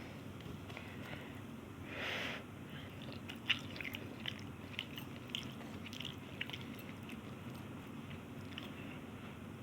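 A person chewing mouthfuls of Maggi instant noodles close to the microphone, with many small wet mouth clicks from about three and a half seconds in. A brief hiss comes about two seconds in.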